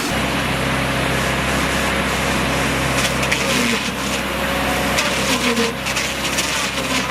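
Sawmill log-handling machinery running: a steady motor hum with wood rubbing and scraping, and clattering knocks of logs that grow busier from about three seconds in.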